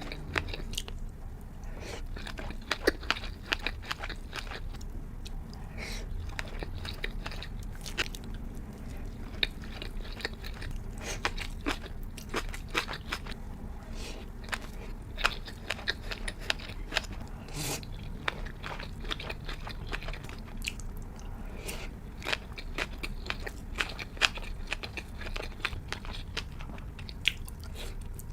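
Close-miked eating of sushi and sashimi: chewing and biting, with many short sharp mouth clicks at irregular intervals.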